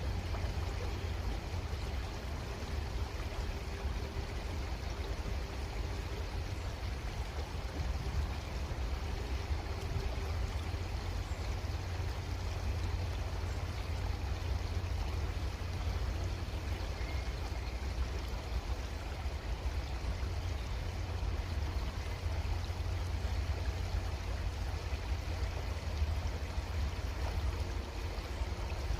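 Creek water flowing steadily, an even rushing with a constant low rumble underneath.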